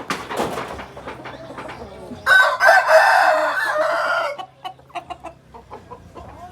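A rooster crowing once, a loud call of about two seconds starting about two seconds in, with softer short clucks and clicks around it.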